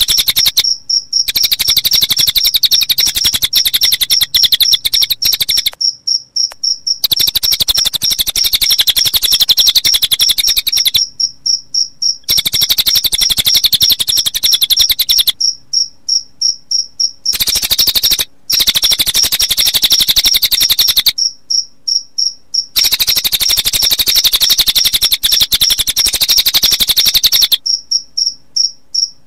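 Recorded training track of a cililin bird's very fast chirping song layered with a cricket's high trill. It comes in long dense runs that break off briefly every few seconds and then start again.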